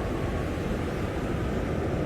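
Blizzard wind blowing steadily, a dense, deep rushing noise at an even level.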